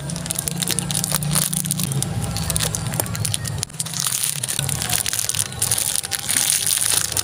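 Close-up mouth sounds of biting and chewing a chocolate-filled pastry bun: a run of crackly, crunchy clicks, mixed with the crinkle of its plastic wrapper as it is pulled back near the end, over a low steady hum.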